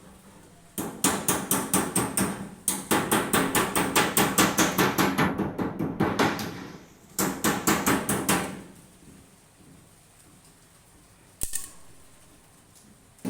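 Rapid hammering: several runs of quick, evenly spaced blows, about six or seven a second, then a single sharp knock near the end.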